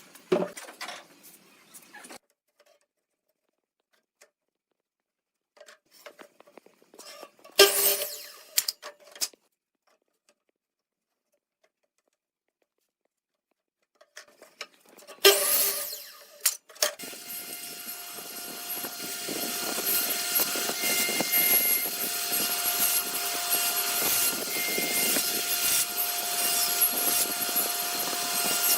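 A few short bursts of woodworking noise, cut apart by silent gaps. Then, over halfway through, an electric power tool starts and runs steadily, growing louder, with a constant hum in its sound.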